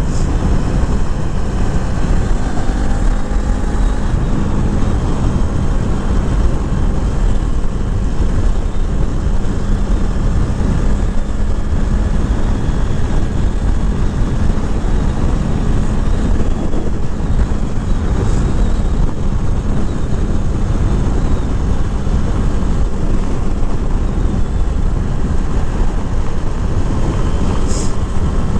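2021 Kawasaki Z400's parallel-twin engine running steadily on the move, under a heavy rush of wind noise.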